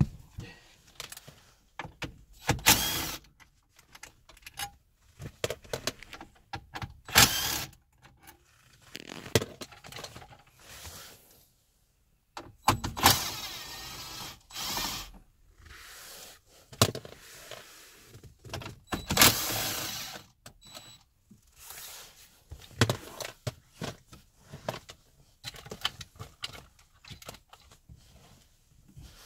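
Car interior trim being taken apart by hand: irregular clicks, knocks and scrapes of plastic panels and clips being worked loose, with several louder sharp pops and rasps.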